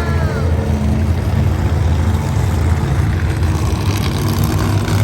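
Monster truck engine running with a steady, deep, loud rumble.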